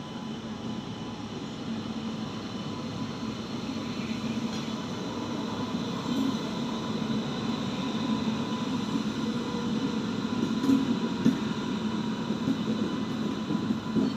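Indian Railways superfast express train running, a steady rumble that slowly grows louder, with a couple of sharp knocks late on.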